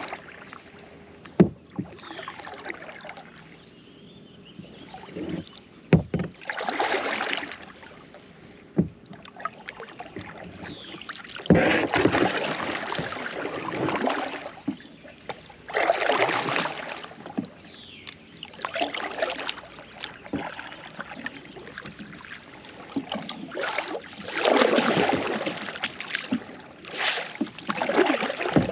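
Kayak paddling: water swishing and splashing with each paddle stroke, in swells every few seconds, with a few sharp knocks in between.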